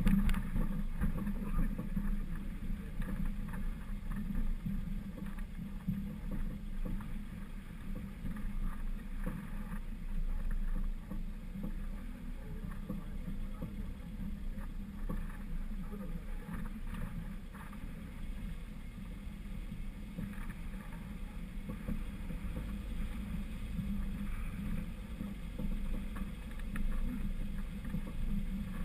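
Lifted 1999 Honda CR-V driving off-road: a steady low engine and drivetrain drone, with scattered short knocks and rattles over rough ground.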